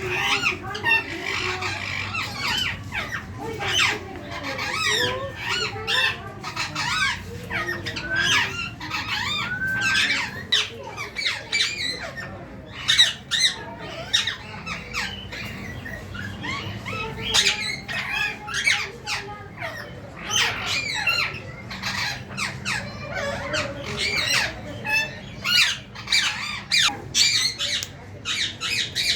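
Green rose-ringed parakeets squawking and chattering in a steady stream of short, quick calls that rise and fall in pitch.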